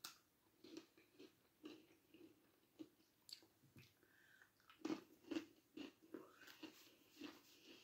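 Faint crunching of a person biting into and chewing a milk-chocolate-coated pretzel: a run of small crunches about two a second, loudest a little past the middle.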